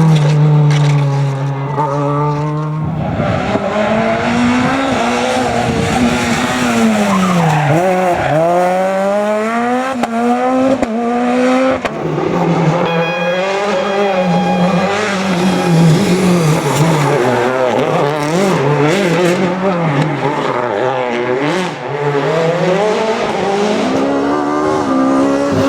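Rally car engine revving hard, its pitch climbing and dropping again and again as the driver shifts gears and lifts off.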